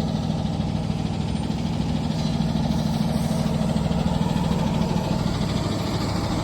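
Box truck engine idling steadily.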